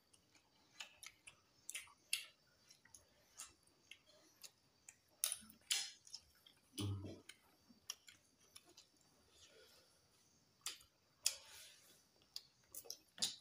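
Close-up eating sounds of people eating rice and boiled eggs by hand: irregular wet mouth clicks and lip smacks of chewing, with a short low voice sound about seven seconds in.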